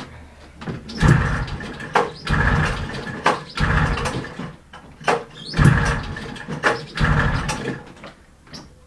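Recoil starter of a 1970s Arctic Cat Panther snowmobile pulled about five times in a row, each pull cranking the two-stroke engine briefly without it catching: a stubborn cold start.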